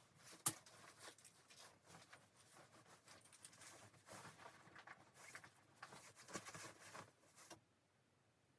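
Faint irregular rustling and clicking, with one sharp click about half a second in; it stops near the end.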